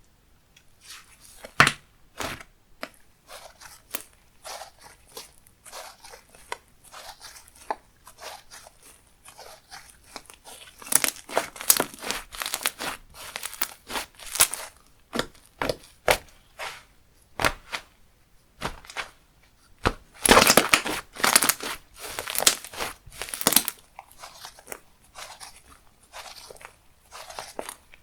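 Hands squishing, pressing and stretching thick creamy slime, making irregular wet clicks and crackly pops. Busier, louder stretches come about a third of the way in and again past two-thirds.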